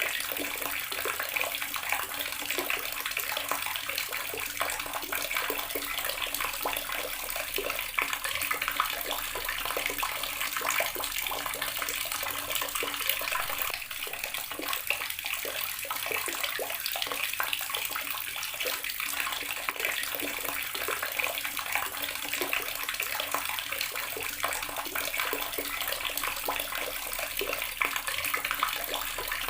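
Water running steadily from an outdoor garden tap and splashing, a constant spatter with no pauses.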